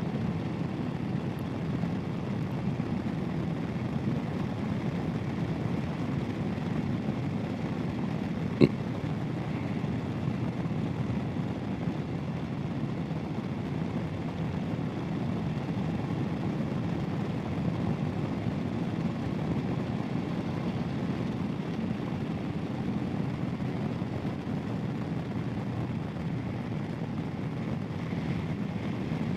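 Royal Enfield Himalayan's single-cylinder engine running steadily while riding, mixed with wind and road noise, with a single sharp click about eight and a half seconds in.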